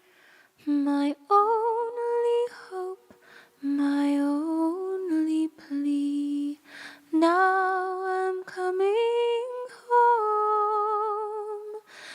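A single female voice singing a slow hymn melody a cappella, holding each note for about a second with a light vibrato and short breaks between phrases.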